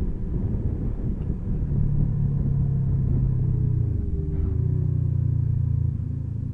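Motorcycle engine running steadily under way, heard from the rider's onboard microphone with a low rumble. The engine note dips briefly about four seconds in, then steadies again.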